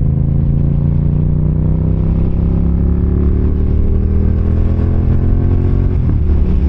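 Yamaha MT-07 parallel-twin engine under way, its pitch rising slowly and steadily as the bike gathers speed, then dropping about six seconds in.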